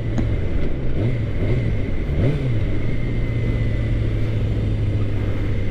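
Suzuki GSX-R600 inline-four engine running under way at steady revs, with a few small rises and dips in revs between about one and two and a half seconds in.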